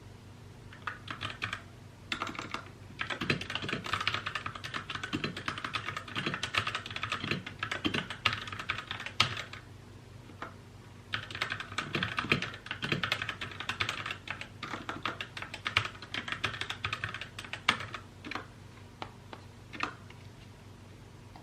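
Mechanical keyboard being typed on in fast runs of keystrokes, with a pause about halfway through and the typing tailing off near the end. A faint steady low hum runs underneath.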